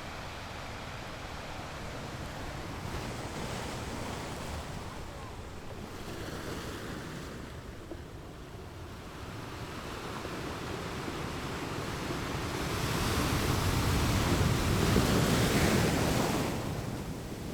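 Wind blowing over the microphone, a steady rushing noise that swells into a louder gust near the end.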